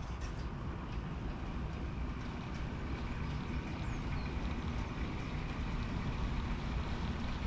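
Train running with a steady low rumble that grows slightly louder near the end as it draws in, with a faint bird chirp or two.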